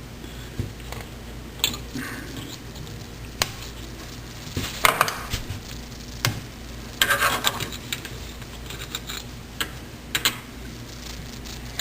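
Scattered light clicks, taps and short rustles of small faucet parts and tools being handled at the sink.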